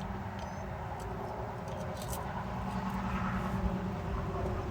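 Steady low hum of an engine running, with a few faint clicks about two seconds in.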